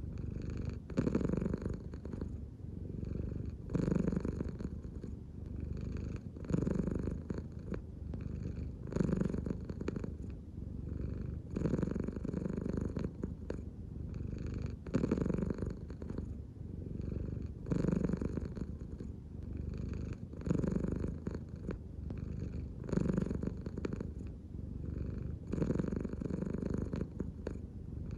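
American Shorthair cat purring close up, a continuous low rumble that swells and eases in a regular rhythm about every two and a half to three seconds as the cat breathes in and out. The purr follows slow, deep belly breathing, the sign of a cat deeply relaxed.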